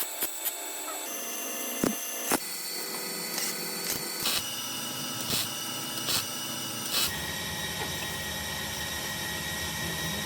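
Welder tack-welding the holes in a car body's sheet-metal panel: a steady hiss with short crackling spikes every second or so, growing fuller and deeper about seven seconds in.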